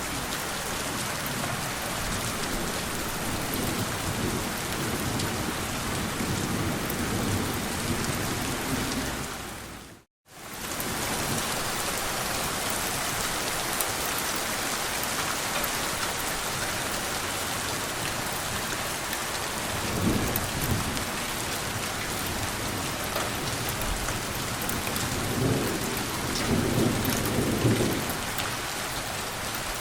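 Steady heavy rain hissing evenly, with low rumbles of gentle distant thunder, most plainly twice in the later part. About a third of the way in, the sound fades out to near silence for a moment and comes straight back.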